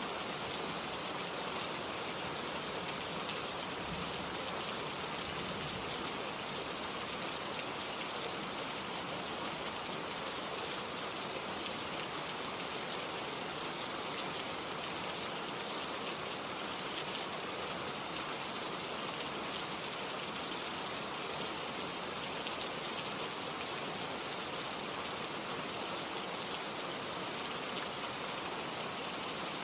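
Gentle steady rain falling, a dense patter of raindrops with no thunder.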